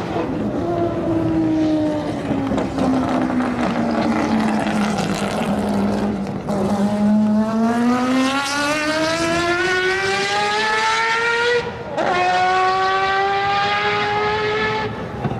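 Historic Group C race car engine under load. Its note sinks over the first six seconds as the car slows, then climbs steadily as it accelerates. About twelve seconds in there is a brief break and drop in pitch at a gear change, and then it climbs again.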